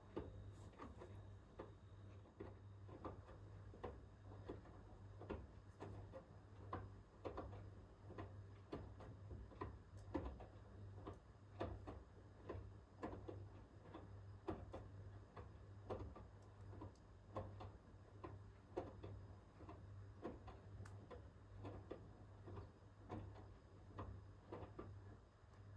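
Hoover H-WASH 500 front-loading washing machine in its wash phase: the drum turns slowly and the laundry tumbles with soft, irregular clicks and knocks a few times a second, over a steady low hum.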